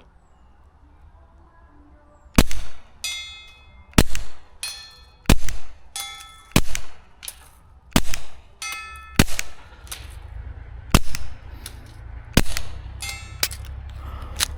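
Eight suppressed .22 LR pistol shots from a Taurus TX22 firing subsonic rounds, about one every second and a half. Several are followed about two-thirds of a second later by the ringing clang of the distant steel plate being hit.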